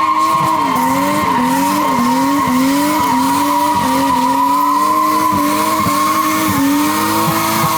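Turbocharged RB20E straight-six in a Nissan R32 Skyline, on the throttle through a drift, its revs climbing and dipping over and over about every two-thirds of a second, with the rear tyres squealing steadily.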